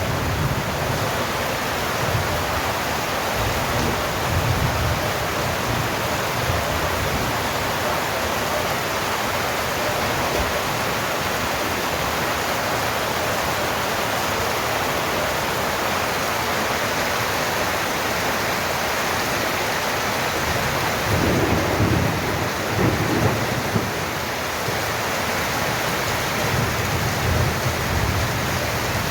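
Heavy monsoon rain falling steadily, with low rumbles of thunder rolling in now and then, the strongest about three quarters of the way through.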